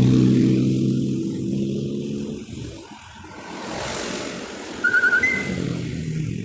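Motor vehicle engines passing on the road: a loud engine hum for the first couple of seconds, and another vehicle coming by near the end. A brief high trill and a short high tone sound about five seconds in.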